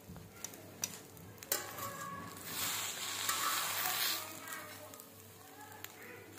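Egg-wrapped burger bun frying in oil on a hot iron tawa as a steel spatula turns it over. There is a sharp tap about a second and a half in, then the sizzle swells loud for about a second and a half midway before settling back to a light crackle.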